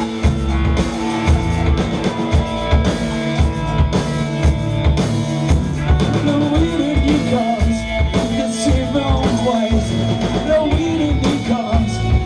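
Live rock band playing an instrumental passage: a steady drum-kit beat under droning basses and electric guitars, with wavering melodic lines rising over it in the second half.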